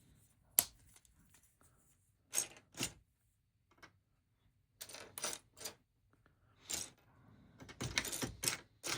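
Plastic LEGO bricks clicking and rattling as they are handled: a sharp click about half a second in, then scattered clicks, with a denser rattle of pieces near the end.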